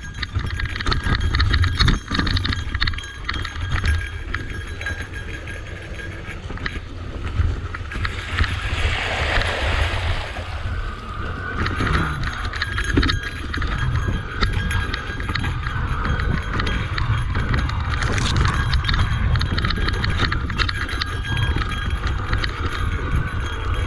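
Electric mountain bike rattling and clattering over a rough, rocky trail, with many quick clicks and knocks from the bike and tyres and a steady low wind rumble on the microphone. A rushing hiss swells about eight seconds in and fades after a few seconds.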